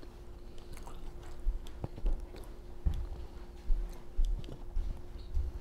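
Close-miked chewing and small mouth sounds of eating, with irregular soft low thumps and little clicks. A faint steady hum runs underneath.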